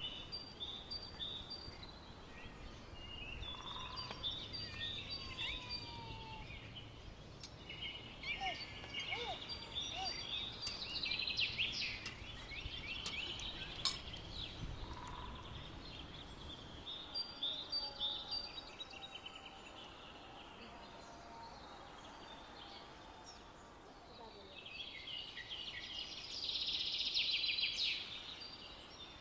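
Songbirds chirping and singing in quick repeated high notes over faint outdoor background noise, with a busy burst of song near the end.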